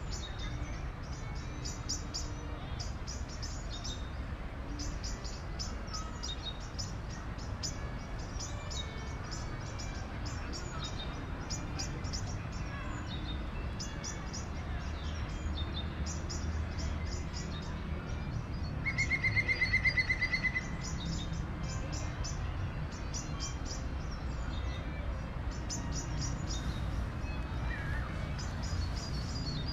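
Many small birds chirping without pause over a steady low rumble of distant city noise. About two-thirds of the way through comes a louder, rapid trill lasting about a second and a half.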